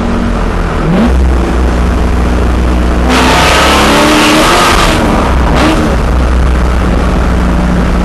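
Supercharged C5 Corvette V8 with an ECS Novi supercharger, a freshly built engine being broken in, running steadily and revved. There is a short blip about a second in, then a longer rev from about three seconds in that climbs and falls over two seconds with a loud rushing hiss on top. A smaller blip follows before it settles back to a steady run.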